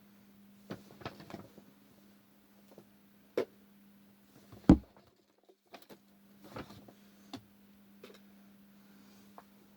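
Scattered knocks and short rustling handling noises, with one louder thump about halfway through, over a steady low hum.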